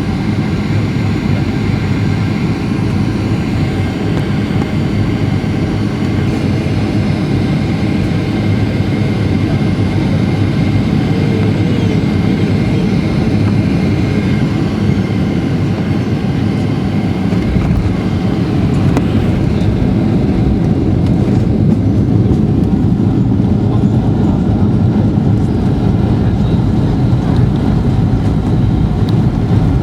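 Steady jet airliner noise during the landing approach: a low rumble of engines and rushing air with faint steady whine tones above it. The rumble grows a little louder and fuller about two-thirds of the way through.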